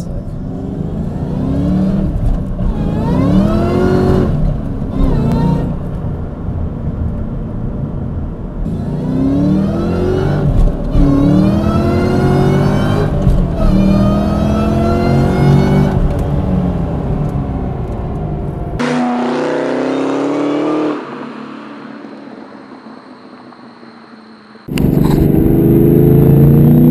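In-car sound of a 2003 Mustang SVT Cobra's supercharged V8 under hard acceleration, the revs climbing in repeated pulls and dropping back at each gear change. Late on, the sound cuts to a thinner-sounding recording, falls low for a few seconds, then the engine comes back loud near the end.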